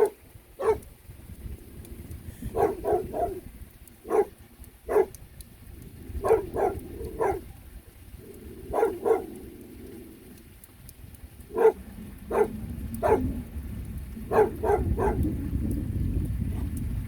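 A dog barking repeatedly: short barks, singly and in quick runs of two or three, every second or two, over a low rushing background.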